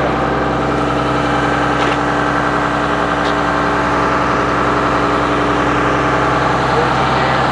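Cummins ISB inline-six diesel engine of a 2009 Blue Bird All American FE school bus idling steadily, with a hum and a constant pitch.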